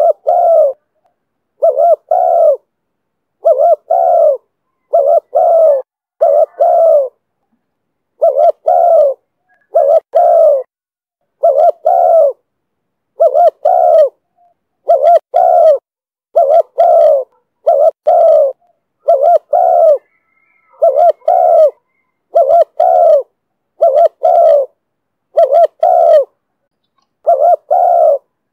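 Spotted dove cooing over and over in the 'thổ thúc bổi' call, a keepers' name for this call style: short phrases of two or three low coos, repeated about every one and a half seconds.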